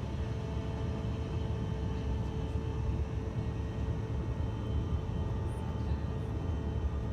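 Airliner cabin noise during takeoff: a steady low rumble of the engines and rushing air, with a steady hum on top.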